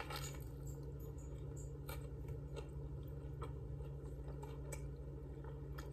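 A person biting into a chicken sandwich on a soft roll and chewing, with scattered short wet mouth clicks over a steady low room hum.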